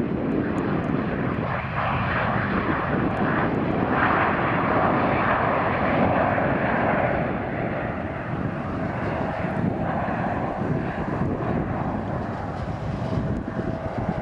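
Jet airliner's engines heard as it passes, a dense rushing noise that swells to its loudest about four to seven seconds in and then eases off, with a faint steady whine near the end. Gusty wind buffets the microphone underneath.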